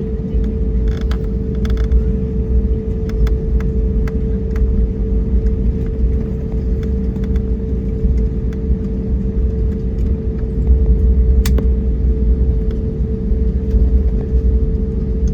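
Airbus A321neo cabin noise: a steady low engine and airframe rumble with a constant hum-like tone, plus a few light creaks and rattles, getting a little louder about ten seconds in.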